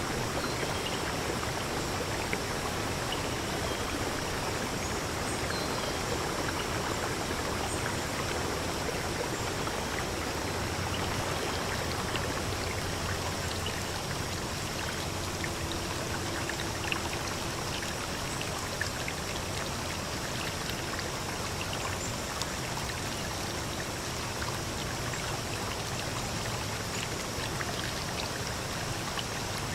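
Steady rushing of a flowing stream, an even wash of water noise with scattered small ticks.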